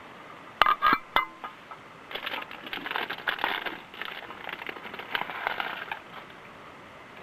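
Metal utensil clinking and scraping in a metal camp cook pot: a few sharp knocks with a short ring about a second in, then a few seconds of quick small clinks and scrapes.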